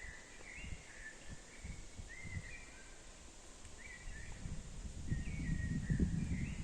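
Birdsong in short, repeated phrases, with a low rumbling noise that grows louder in the second half.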